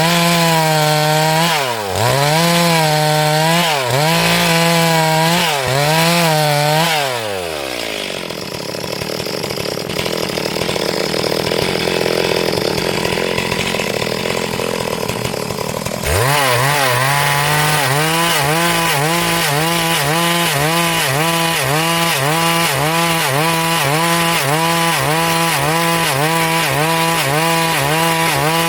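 Stihl MS382 two-stroke chainsaw running at high revs while ripping along a hardwood log, its pitch dipping and recovering every couple of seconds as the chain bites. About seven seconds in, the revs fall away and a quieter stretch follows. Near the middle it comes back abruptly at full revs, the pitch wavering quickly and evenly as it cuts.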